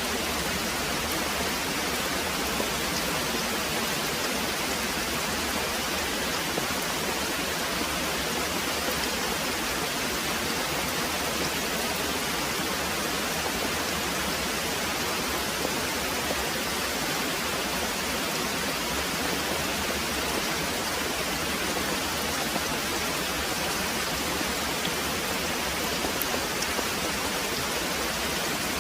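Very heavy rain pouring steadily: an even, unbroken wash of rainfall with no thunder.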